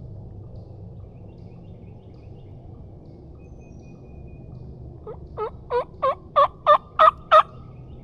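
Turkey call worked by a hunter: a run of about eight hen-turkey yelps, three a second, growing louder, starting about five seconds in. The calling is meant to locate a gobbler or draw a response.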